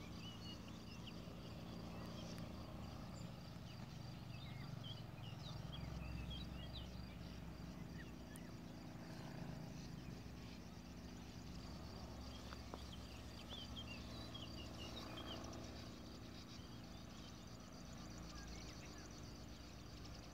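Birds calling in short chirps and twitters, coming in scattered bouts, over a faint steady high whine and a low rumble.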